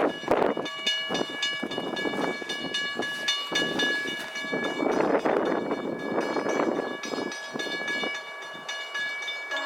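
VIA Rail passenger train on the move: a surging rumble with many sharp clicks, over a steady high ringing tone.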